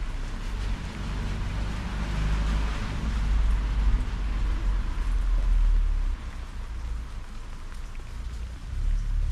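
Rain falling steadily during a thunderstorm, over a deep low rumble that swells through the middle and drops off sharply about six seconds in.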